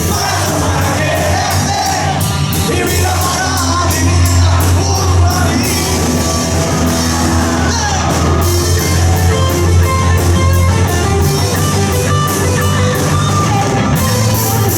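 Live rock band playing a cover song: a singer over electric guitar, bass guitar and a drum kit, with steady drum and cymbal hits.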